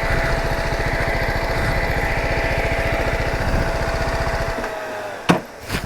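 BMW motorcycle engine idling with a steady, even beat, then switched off about four and a half seconds in as a thin whine winds down. Two sharp clicks follow near the end.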